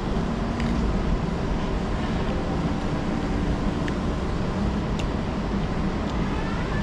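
Steady low background rumble with a few faint clicks, like traffic or machinery noise heard at a distance.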